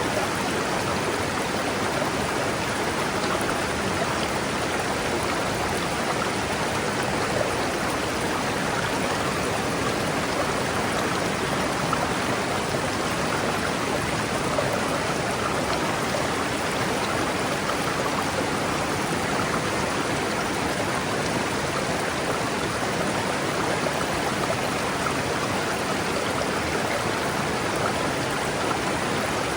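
River water rushing steadily over rocks, a constant, even flowing sound with no breaks.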